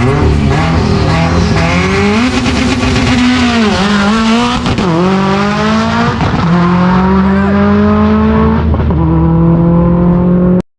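Turbocharged Subaru WRX STI engine revving hard in several rising pulls, its pitch dropping between them. The sound cuts off suddenly near the end.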